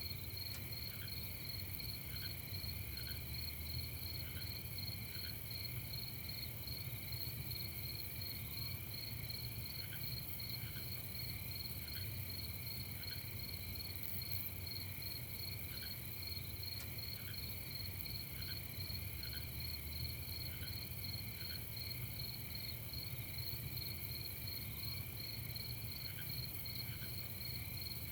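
Crickets chirping at night in a steady, rapid pulsing trill, layered over a low steady rumble. Faint short notes sound in pairs every second or two underneath.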